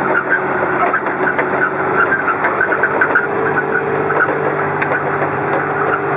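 A vehicle's engine running steadily, heard from inside the cab, with faint irregular ticking over it.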